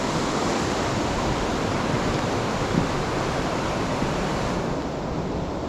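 Waterfall rushing steadily as a large volume of fast water pours through a narrow rock gorge, a loud even roar of water that turns slightly duller near the end.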